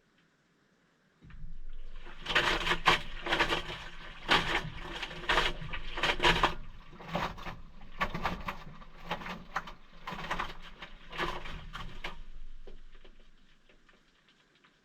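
Maytag washing machine in a cold wash cycle: the motor starts with a low hum about a second in and the load of wet towels sloshes and churns in the water, then the motor winds down and fades out near the end.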